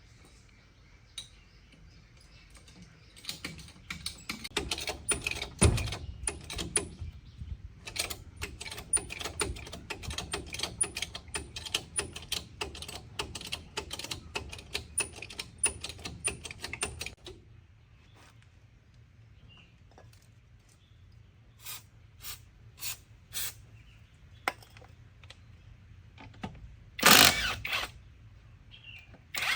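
Hand tools working on metal: a fast, dense run of clicking and tapping lasting about fourteen seconds, then a few scattered clicks and a single louder clatter near the end.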